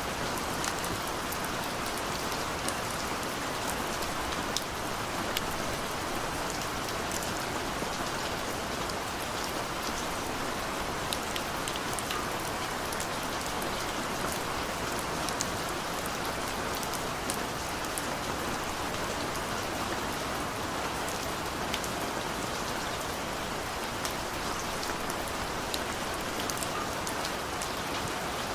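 Steady rainfall, an even hiss with many individual drops ticking sharply against a surface.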